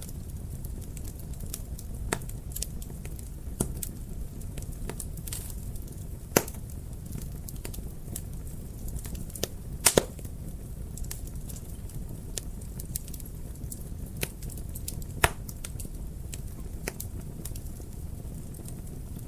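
Wood fire burning in a fireplace: a low steady rumble of flames with sharp crackles and pops at irregular intervals, the loudest a quick double pop about ten seconds in.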